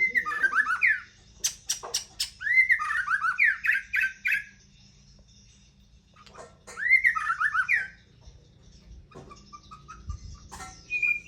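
White-rumped shama singing: three quick phrases of rapid, slurred whistled notes, with a few sharp clicks between the first two phrases.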